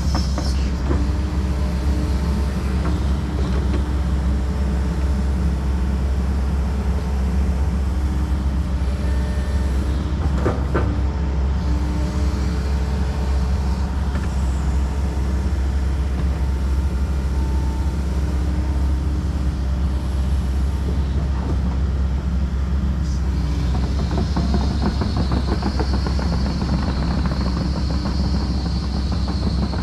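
Tracked excavator's diesel engine running steadily, a constant low rumble with faint intermittent tones from the machine working.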